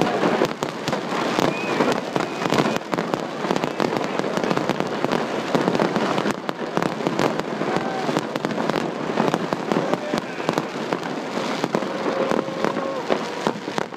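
Fireworks display: a dense, continuous run of crackling and popping from many bursting shells, the sharp reports coming in rapid succession.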